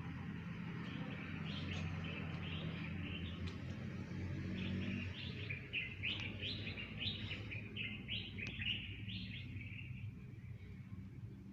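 Small birds chirping in quick repeated runs of short, high notes, busiest past the middle and fading near the end, over a low steady hum.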